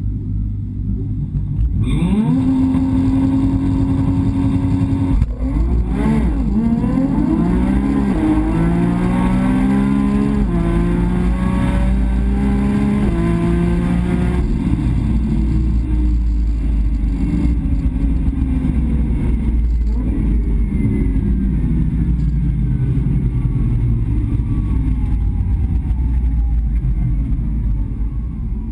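Nissan GT-R R35's twin-turbo V6, heard inside the cabin during a quarter-mile drag run: the revs rise and hold steady on the line, then about five seconds in the car launches and the engine climbs through the gears in a run of rising pulls, each cut short by a quick upshift. About halfway through the engine note drops away and falls slowly as the car slows after the run.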